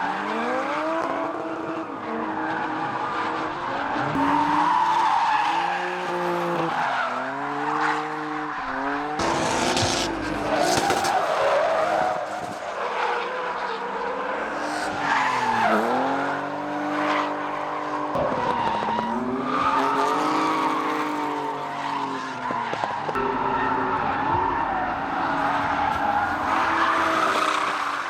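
Drift car engines revving up and down again and again under hard throttle, over the continuous noise of skidding, squealing tyres.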